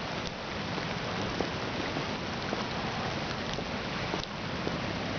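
Steady rain falling, a constant hiss with scattered separate drop ticks.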